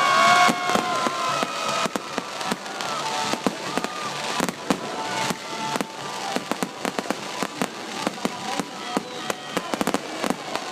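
New Year's fireworks going off in quick succession: a dense run of sharp bangs and crackles, with some pitched tones sounding near the start.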